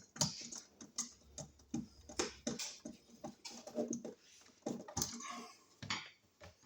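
Irregular light clicks and taps of wires and hand tools being handled at an outlet box, as the wires are pulled apart.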